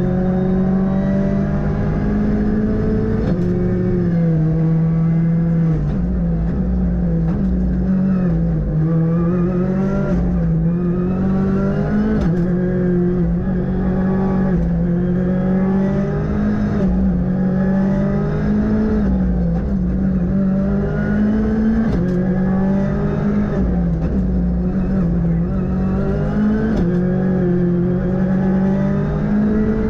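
Ford Fiesta R5's turbocharged four-cylinder rally engine, heard from inside the car, revving hard and falling back over and over as the car accelerates, shifts and lifts between corners on a rally stage.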